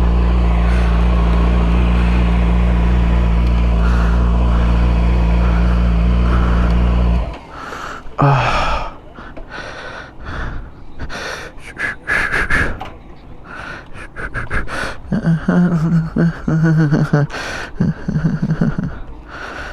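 Yamaha R6 sportbike's inline-four engine running steadily through an aftermarket Graves exhaust, then switched off suddenly about seven seconds in. After that, irregular clicks, rustling and close breathing on the microphone.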